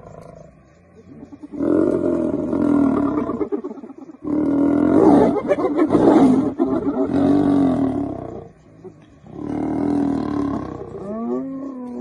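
Lions growling and roaring in three loud bouts of a few seconds each, with short pauses between.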